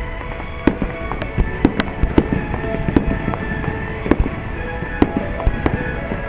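Fireworks display: shells bursting in a rapid, irregular series of booms, about two a second, with music playing underneath.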